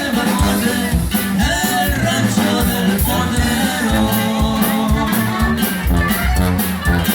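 Corrido played by a Mexican regional band, with a steady bass beat under the melody.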